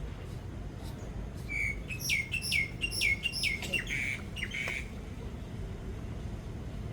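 A bird calling: a run of about six sharp, high notes, each dropping in pitch, a little more than two a second, over a low steady rumble.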